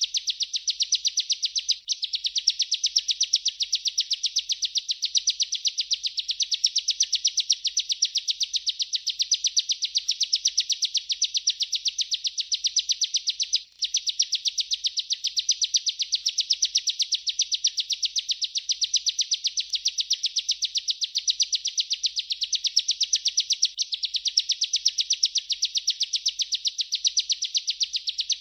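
Bar-winged prinia (ciblek) singing its continuous rolling 'ngerol' trill, a rapid run of high, evenly repeated notes that breaks off for an instant twice.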